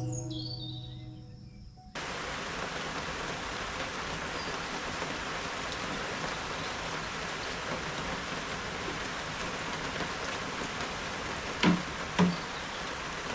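Music fading out, then an abrupt cut to steady rainfall. Two sharp knocks come close together near the end.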